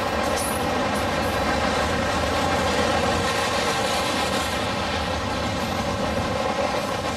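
Loaded freight cars (steel-coil cars and gondolas) rolling past steadily: a continuous drone of steel wheels on rail, with a couple of brief high squeals in the first second or so.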